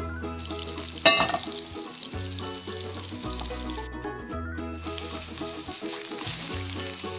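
Turkey burger patty sizzling as it fries in a pan, a steady hiss that drops out briefly midway. Light background music with a bass line plays under it.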